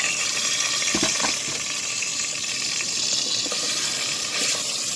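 Pork chops sizzling in hot ghee in an Instant Pot: a steady hiss, with a couple of light knocks about a second in.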